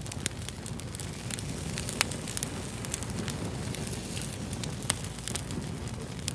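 Fire crackling: a steady low rumble with irregular sharp pops, the loudest about two seconds in and again near five seconds.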